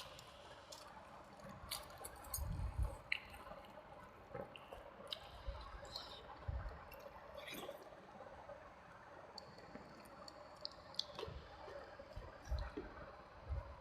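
Close-miked wet chewing and mouth sounds of someone eating rice and curry, with scattered small clicks and a few soft low thuds.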